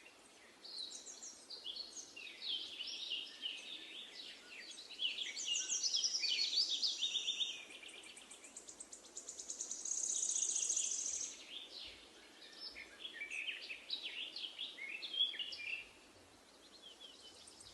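Songbirds chirping and singing, many quick overlapping calls and trills, with a longer high buzzy trill about ten seconds in.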